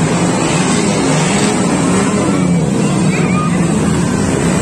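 Motorcycle engines running in a steady, wavering drone at a motorcycle race.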